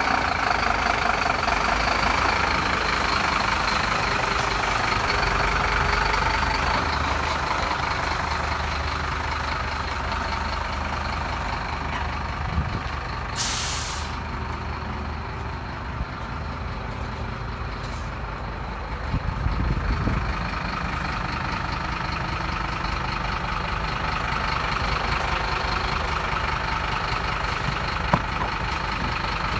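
Scania P270 truck's diesel engine running steadily, with a short hiss of released air about halfway through and a low thump a few seconds later.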